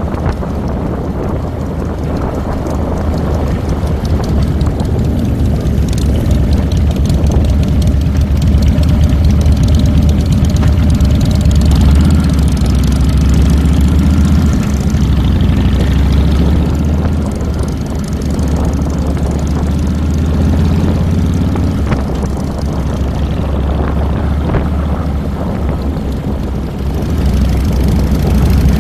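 2007 Harley-Davidson Fat Boy's Twin Cam 96 V-twin engine running as the motorcycle is ridden, heard close up from the handlebars, with a strong low rumble throughout.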